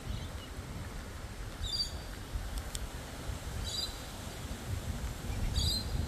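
A bird calling three times, a short high call about every two seconds, over a steady low rumble.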